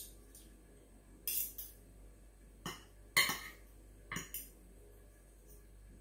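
Metal spoon and fork clinking against a plate of food, several short, sharp clinks spread over the few seconds, the loudest a little after one second and about three seconds in.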